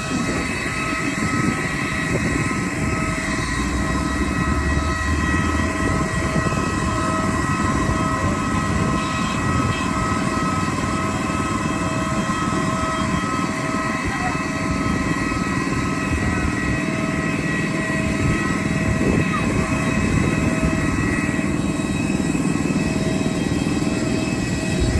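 Airliner's engines running with a steady roar and a constant whine over it, a couple of the whine tones pulsing evenly.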